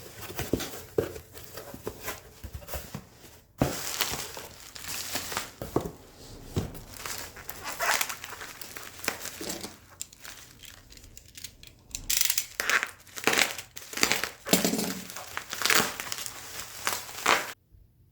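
Irregular crinkling and rustling of something being handled by hand, with sharp knocks among it, cutting off suddenly just before the end.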